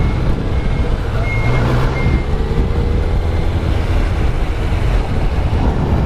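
Kawasaki Z900 inline-four engine running steadily. Four short, high beeps sound in the first two seconds.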